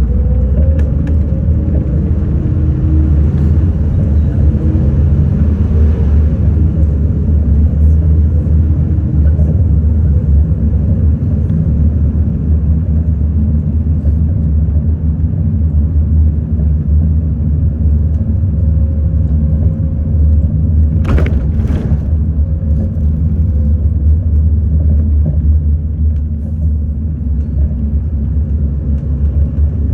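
City bus in motion, heard from inside: a steady low rumble of engine and road noise. Two brief sharp sounds come about two-thirds of the way through.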